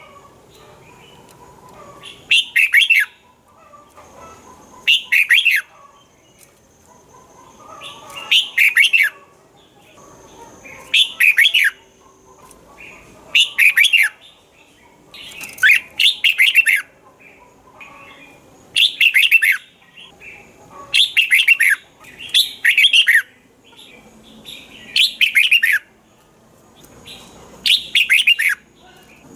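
Red-whiskered bulbul singing: short, loud, warbling phrases repeated every two to three seconds.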